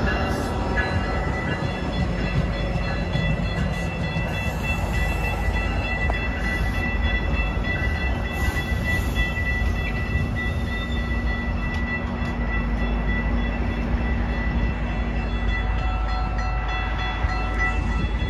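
Metra diesel-hauled commuter train passing close by: the locomotive goes past first, then stainless-steel bilevel passenger cars roll by. The wheels on the rails make a steady low rumble with scattered light clicks, and a thin steady high tone sits over it.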